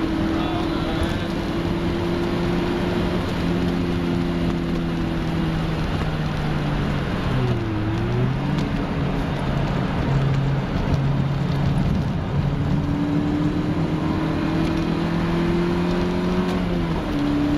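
A Mk1 Golf cabrio's 1.8-litre fuel-injected four-cylinder engine, heard from inside the cabin, pulling steadily on track over road noise. About eight seconds in the pitch dips briefly and comes back up, then climbs slowly and falls again near the end.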